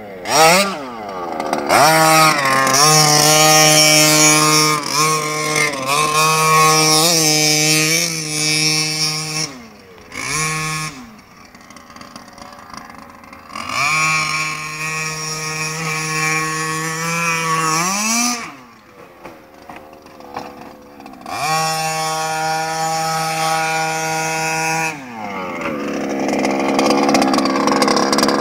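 Small two-stroke petrol engine of an HPI Baja 5SC SS 1/5-scale RC truck, run at full throttle. It climbs to a high, steady whine and holds it for several seconds, then drops back to a low idle between runs. This happens three times, with a short blip of throttle after the first.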